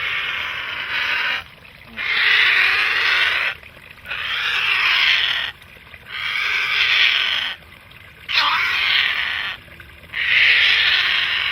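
Juvenile great blue heron giving harsh, raspy distress squawks, about six long calls roughly every two seconds, as it is caught and handled.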